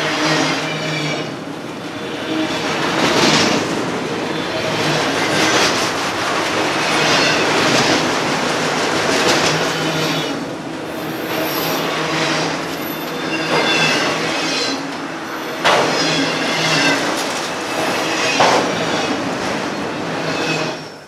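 CSX autorack freight cars rolling past close by: a steady loud rumble of steel wheels on rail, with repeated clacks over the rail joints and short high-pitched wheel squeals.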